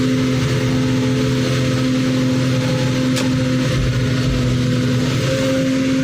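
Engine running steadily with an even hum, its pitch stepping up slightly about five seconds in.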